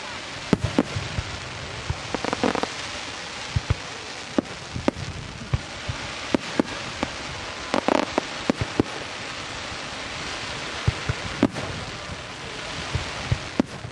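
Aerial firework shells bursting: an irregular series of sharp bangs, many a second at times, over a continuous hiss, with two denser stretches about two and a half and eight seconds in.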